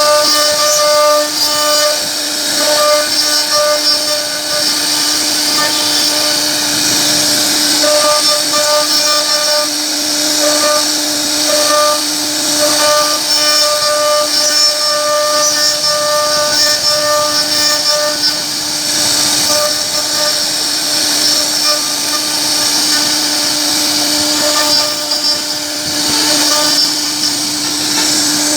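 CNC router spindle running steadily as its bit cuts a pocket into wood: a constant pitched whine over the hiss of cutting, with small rises and dips in level.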